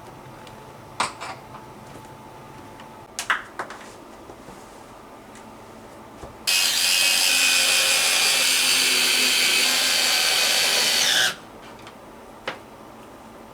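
Electric screwdriver running steadily for about five seconds, starting and stopping abruptly, with a couple of light clicks of handling before it.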